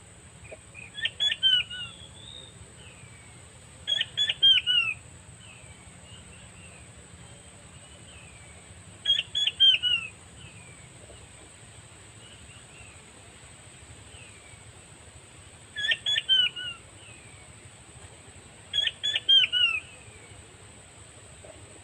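Puyuh batu quail call: a quick run of four or five sharp, downward-hooked notes, repeated five times a few seconds apart, with fainter chirps between.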